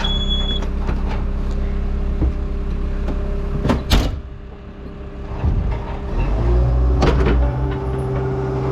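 Skid steer engine running steadily, with a couple of sharp knocks near the middle; about six seconds in, the engine is throttled up and runs louder and higher.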